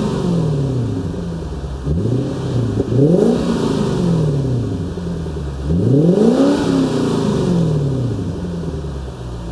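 Lexus GS430's 4.3-litre V8 revved through a Suruga Speed loop-sound aftermarket muffler: short blips of the throttle about two and three seconds in, then a bigger rev near the middle, each falling back toward idle.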